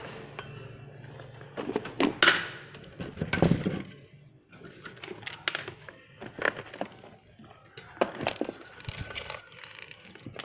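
Small metallic clicks, clinks and knocks of tools and parts being handled during an electronics repair, scattered irregularly, over a low hum that fades out after about a second and a half.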